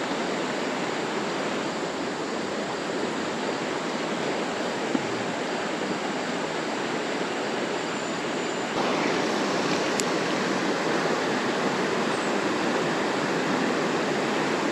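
Steady rush of creek water pouring over a small dam, stepping up slightly in level about nine seconds in.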